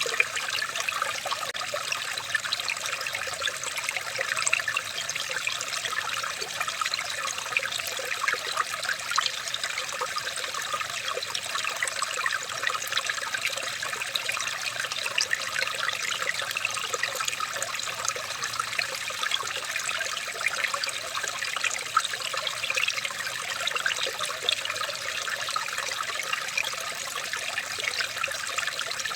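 Water trickling and babbling steadily, with many small splashes and drips running through it, as in a small stream.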